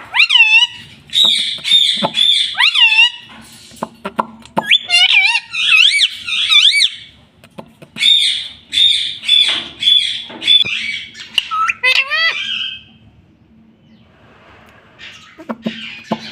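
Pet parrot calling and chattering: a quick run of shrill squawks and gliding whistled notes, breaking off for about two seconds near the end before it starts up again.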